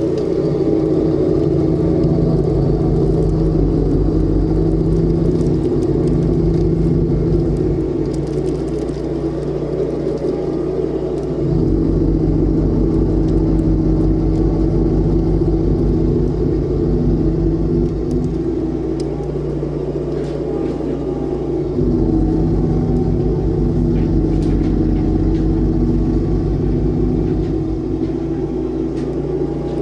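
John Deere X738 garden tractor running with its front-mounted PTO snowblower engaged, a steady engine and blower drone. The engine note steps up and gets louder twice, about 11 and 22 seconds in, and eases back between.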